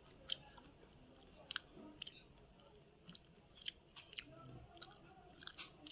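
Faint, irregular clicks and light taps of kitchen handling during food preparation, scattered a few to the second.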